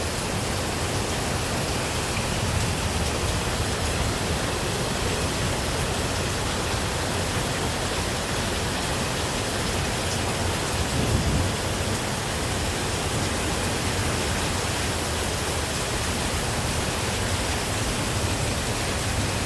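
Heavy rain pouring down, a steady dense hiss without a break.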